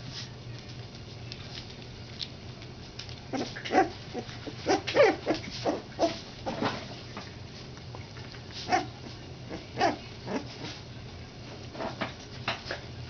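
Three-week-old schnauzer puppies crying in short calls: a burst of them starting a few seconds in, then single cries now and then.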